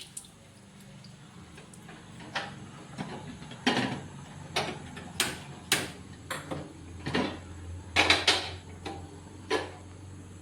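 Cookware and utensils being handled: a dozen or so irregular sharp knocks and clinks, with a faint low steady hum coming in about two-thirds of the way through.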